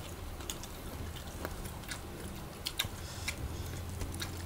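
Chewing and soft mouth clicks of people eating chicken adobo with rice by hand, with a few faint scattered ticks over a low steady hum.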